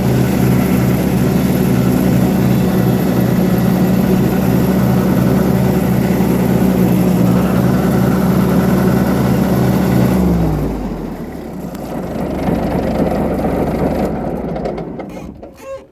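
Iseki TMG18 compact tractor's engine running at a steady speed, then shut off about ten seconds in, its pitch dropping as it runs down and stops. A lower rumbling noise carries on for a few seconds after and fades near the end.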